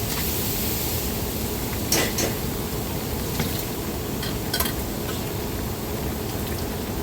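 Steady background noise with a few scattered sharp knocks and clinks, like dishes or utensils being handled, about two and four seconds in.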